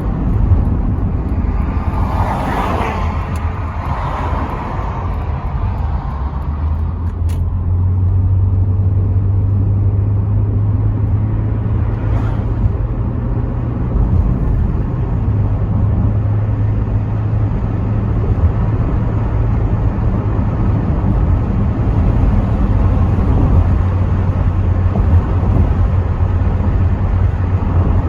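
Rover 75 V6 estate on the move, heard from inside the cabin with the windows partly down: a steady low engine drone with road rumble and wind noise. A brief rush of noise swells and fades about two to four seconds in, a sharp click comes about seven seconds in, and the drone grows stronger after that.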